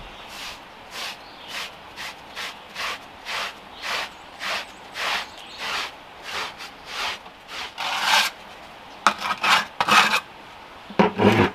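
Rhythmic hand scraping strokes, about two a second, followed by a quicker run of louder strokes near the end.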